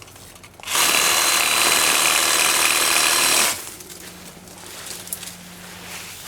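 Ryobi P516 18-volt cordless reciprocating saw running at full speed for about three seconds while cutting a palm tree branch, then stopping suddenly.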